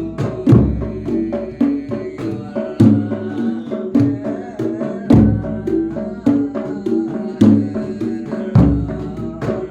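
Javanese percussion ensemble playing, led by the jedor bass drum with a deep strike every two seconds or so, over quick drum strokes and a repeating pattern of pitched notes.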